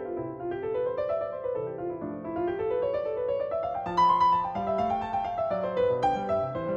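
Background piano music: quick flowing arpeggios running up and down, with a fuller chord about four seconds in.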